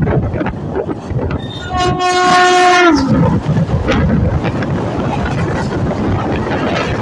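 Indian Railways express train passing at speed: the locomotive's horn sounds for about a second and its pitch drops as it goes by, over continuous rapid clatter of wheels on the rails and rushing air.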